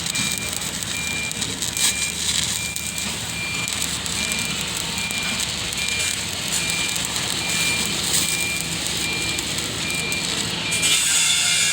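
A vehicle's reversing alarm beeps at a high pitch about twice a second, over a steady hiss and a low machine rumble. The hiss gets louder near the end.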